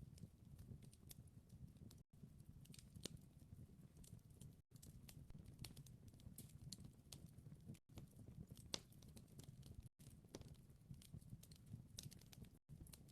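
Faint wood fire crackling: scattered small snaps and pops over a low, steady rumble, broken by brief gaps of silence every two to three seconds.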